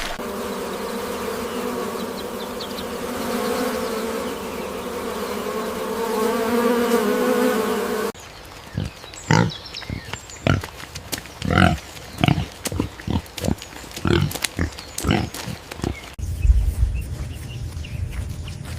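Steady buzzing of bees for about eight seconds, cut off abruptly. Then a run of short pitched animal calls, a little over one a second. A low rumble comes in near the end.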